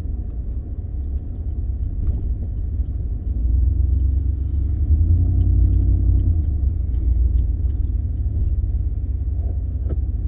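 Cab interior of a 2015 Ford F-150 with the 5.0 V8 under way: low engine and road rumble, louder for a few seconds in the middle as the truck pulls harder. There is no popping through the intake now that a new throttle body is fitted.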